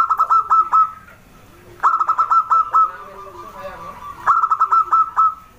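Zebra dove (perkutut) singing: three quick phrases of rapid staccato cooing notes, each just under a second long, spaced about two seconds apart.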